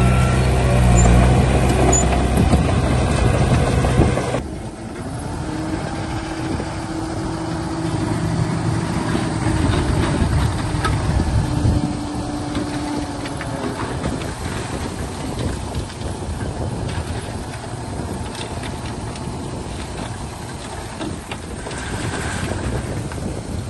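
Heavy diesel earthmoving machinery running: a loud, steady engine note that drops abruptly about four seconds in, followed by a quieter engine sound with a steady hum for the rest.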